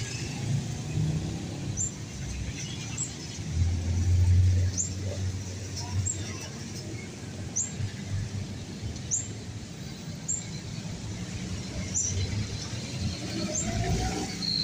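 A small bird chirping, one short high note about once a second, over a low outdoor rumble that swells briefly about four seconds in.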